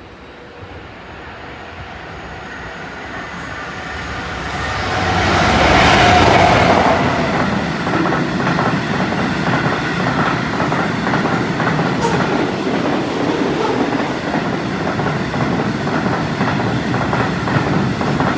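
Locomotive-hauled train passing at speed. The locomotive approaches and is loudest about six seconds in, then the train's carriages follow with a steady clickety-clack of wheels over rail joints.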